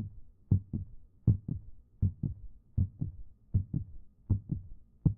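Heartbeat sound effect: steady paired lub-dub thumps, about one pair every three-quarters of a second.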